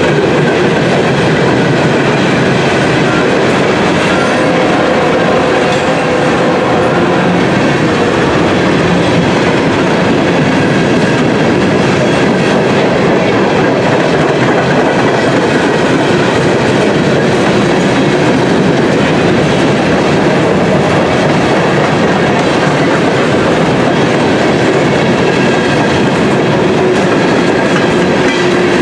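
Coal hopper cars of a CSX freight train rolling past, with a loud, steady rumble and clatter of steel wheels on the rails. Faint squealing tones from the wheels come and go.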